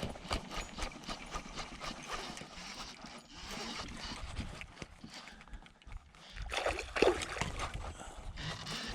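Irregular light knocks and clicks of tackle and hull on a fishing kayak, with a louder burst of sound about seven seconds in.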